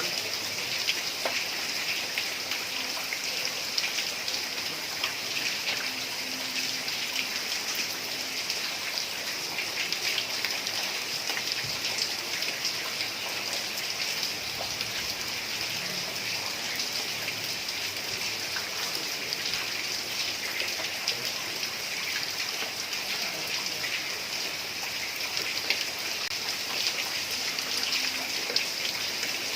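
Heavy rain falling steadily on a tiled roof, an even hiss with many individual drops ticking through it.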